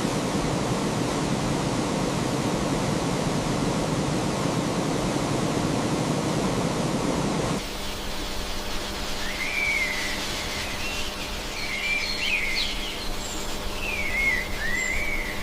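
A steady rushing noise that cuts off abruptly about halfway through, followed by a quieter outdoor ambience with birds chirping in short rising and falling calls.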